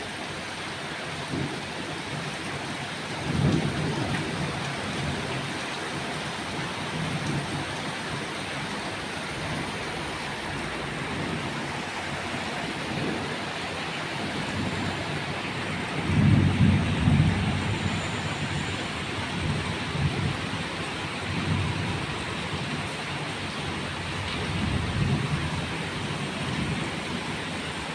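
Rain falling steadily with an even hiss, with low rumbles swelling up a few times, the loudest about sixteen seconds in.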